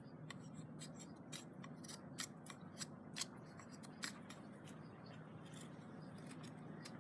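Irregular small sharp clicks and snips of a cutting tool at work, about a dozen spread unevenly, the sharpest a little past three seconds in and at about four seconds, over a faint steady low hum.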